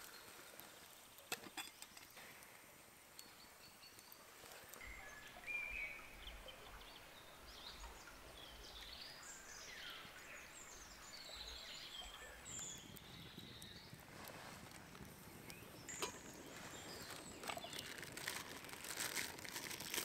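Faint woodland birds calling, a scattered series of short rising and falling chirps, over quiet forest background; in the last few seconds a run of light clicks and crackles.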